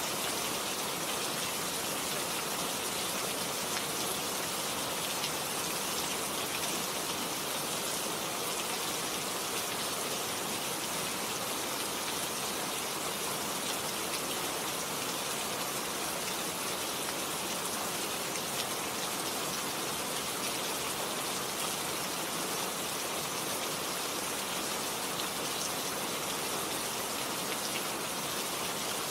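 Steady rain falling on a garden: an even hiss with scattered small drop ticks throughout.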